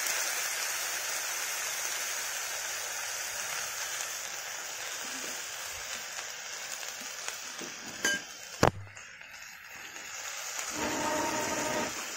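Cauliflower and potatoes frying in a steel kadai, a steady sizzle as ground masala paste goes into the hot oil, slowly dying down. Two sharp knocks come about eight seconds in.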